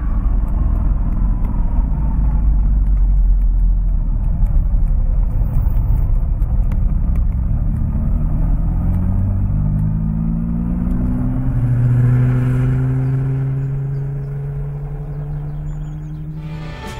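1967 Aston Martin DB6 Vantage's straight-six engine driving along with a heavy low rumble, then its pitch climbing steadily as the car accelerates about halfway through. The engine then holds a steady note, easing off slightly near the end.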